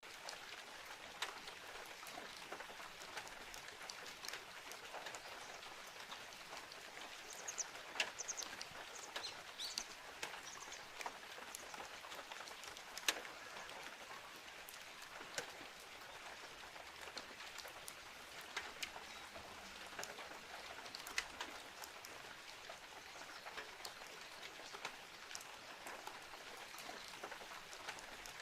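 Steady rain falling, with many scattered sharp ticks of single drops landing close by.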